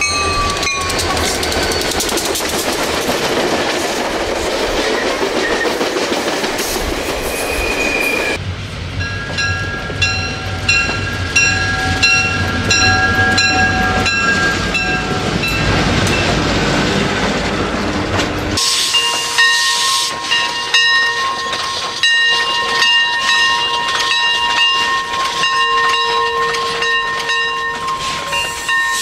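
Train sounds: a train rumbling past, then repeated horn blasts, each a chord of several steady tones, over clickety-clack of wheels on rail joints. About eighteen seconds in the sound changes suddenly to lighter clicking under a long held chord.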